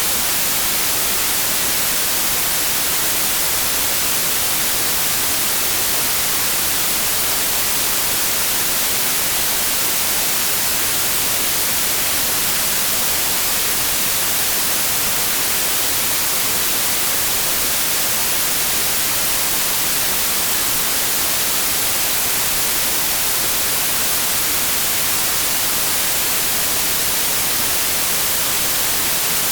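Steady white noise: an even, unchanging hiss, strongest in the treble, with no variation or events.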